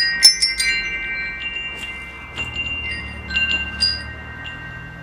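Metal wind chimes, their tubes struck together in a quick cluster at the start and then only now and then, several clear tones ringing on and slowly fading.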